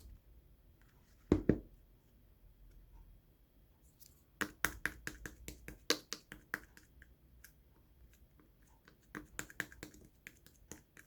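Pink slime being pressed and poked by hands, giving sharp clicks and pops. There are two loud pops about a second in, then clusters of rapid clicks in the middle and near the end.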